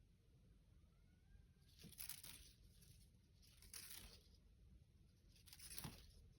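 Three faint, brief scratchy rustles, about two seconds apart, over near silence.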